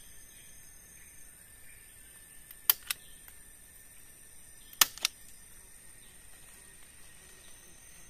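Two pairs of sharp knocks, the pairs about two seconds apart, from work on the shelter's wall, over a steady high insect drone.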